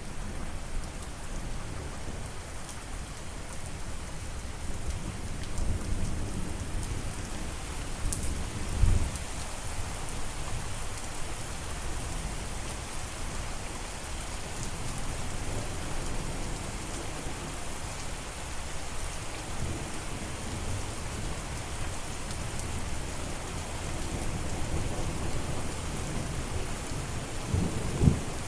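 Steady heavy rain falling, with low rolling thunder underneath that swells about nine seconds in and again near the end.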